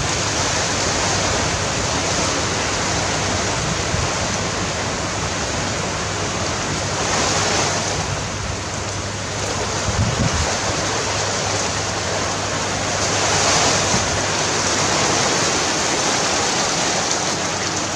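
Strong wind gusting, a steady loud rushing that swells twice, once about halfway through and again later on, with a brief low buffet on the microphone about ten seconds in.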